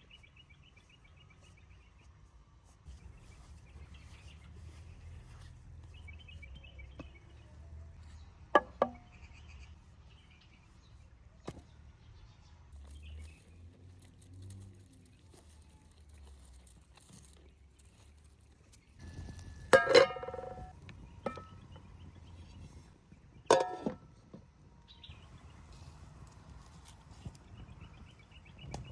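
A few sharp clinks and knocks of cooking gear, some with a short metallic ring, the loudest about twenty seconds in and another a few seconds later, over a low steady rumble, with birds chirping now and then.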